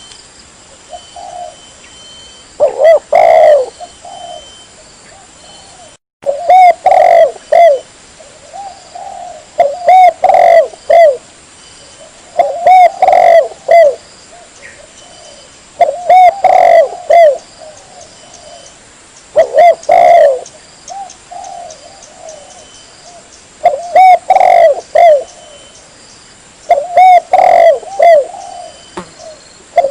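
Spotted dove (tekukur) cooing loudly: a phrase of several rolling coos repeated about every three to four seconds, with fainter coos between the phrases.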